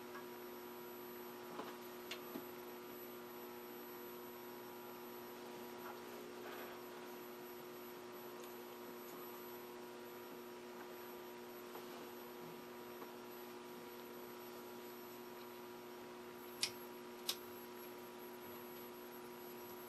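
Philco Predicta Princess vacuum-tube television chassis, powered up, giving a faint, steady mains hum made of several held tones. Two short sharp clicks come near the end.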